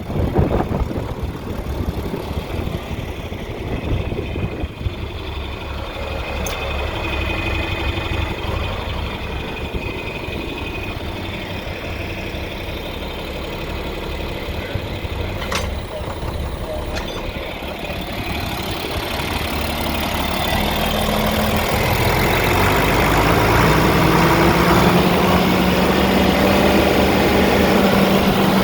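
John Deere 4430's six-cylinder diesel engine running at a steady low idle. Over the last third its speed rises, with a climbing pitch and growing loudness.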